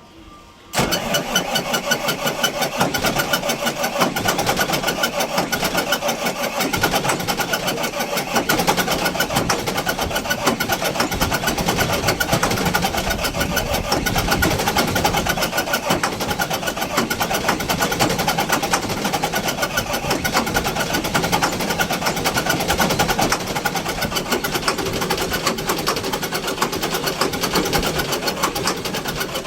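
An old engine starting from cold: it comes in abruptly under a second in, then runs on steadily with a fast, even beat of firing strokes.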